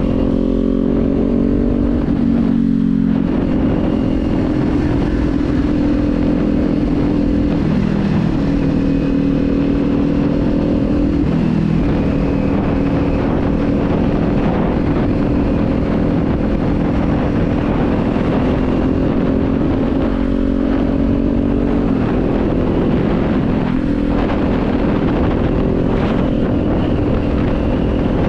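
Kawasaki Z400 parallel-twin engine running under way with a rush of wind noise. Its engine note dips and steps several times as the gears change.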